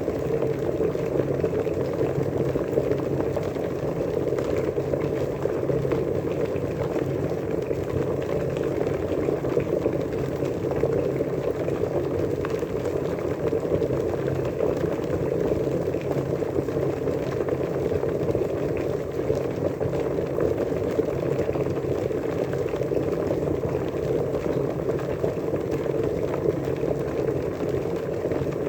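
Water at a steady rolling boil, a continuous dense bubbling.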